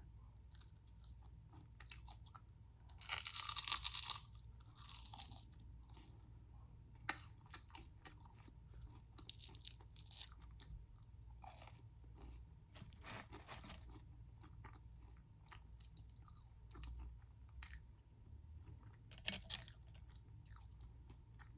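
Close-miked eating: bites and crunchy chewing of crispy fried food, with the loudest crunch about three seconds in and smaller scattered crackles after it.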